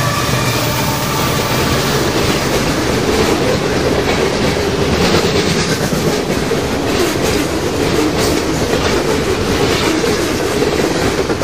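Freight train rolling past at speed: steady, loud noise of steel wheels on rail as the cars go by.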